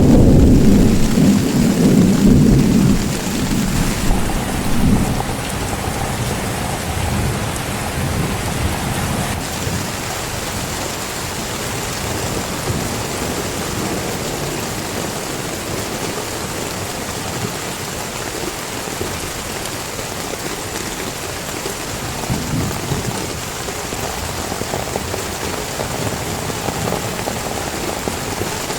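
Heavy rain falling steadily, with thunder: a loud low rumble dies away over the first few seconds, and fainter rumbles come a few seconds in and again near the end.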